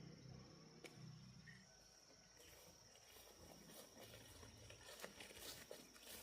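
Faint outdoor ambience: a steady high insect trill, with light rustling and crackling starting about two seconds in and growing toward the end.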